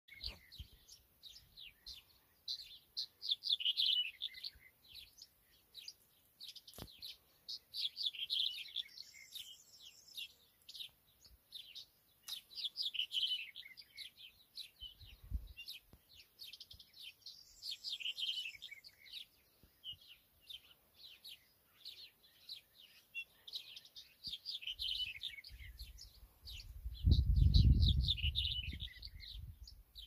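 Small birds singing short, rapid phrases of high chirps, one phrase every four or five seconds, with a low rumble near the end.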